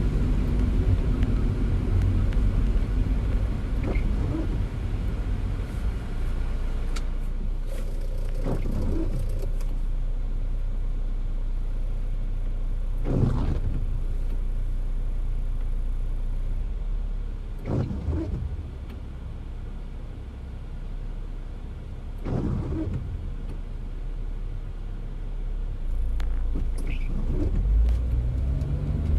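A car driving in the rain: a steady low engine and road rumble with rain noise, and a short sweeping noise about every four and a half seconds. The rumble softens for a while past the middle, and the engine pitch rises near the end.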